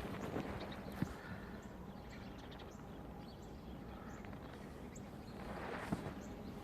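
Footsteps crunching in fresh snow: a couple of steps near the start and again near the end, with a steady faint hiss between.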